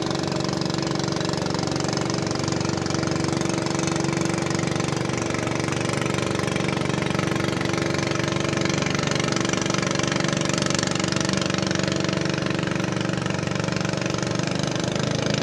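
A motor engine running steadily at an even pitch, with no change in speed.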